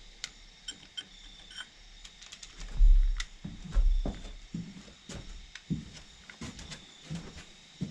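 Scattered light clicks and clinks of metal engine parts and tools being handled during a V8 teardown, with two dull thumps about three and four seconds in.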